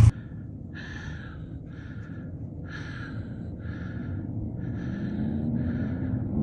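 A person panting hard, with rhythmic breaths about one and a half a second, over a low rumble.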